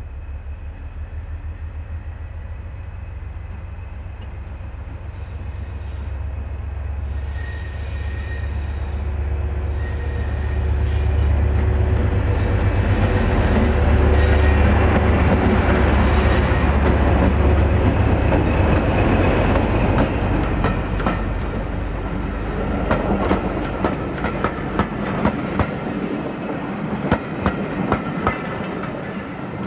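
A diesel locomotive hauling a passenger train passes: its deep engine rumble builds to a peak about halfway through and then eases off. The carriages follow, their wheels clicking in a steady rhythm over the rail joints.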